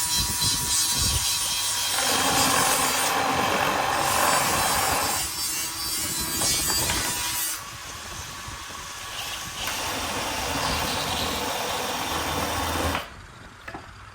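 A power tool working on wood, running in several stretches of changing pitch and load, then stopping suddenly near the end.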